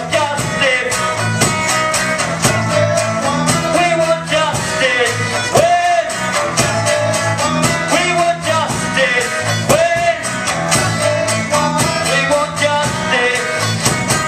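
A song with strummed guitar chords and a voice singing a melody over them.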